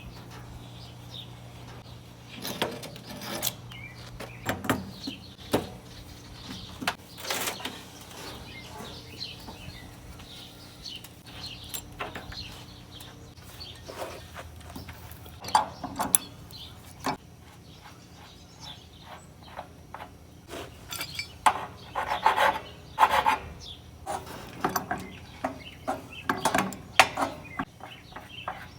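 Irregular knocks, clanks and scraping as a water heater is dismantled for its scrap metal, with a cluster of louder knocks in the second half, over a steady low hum.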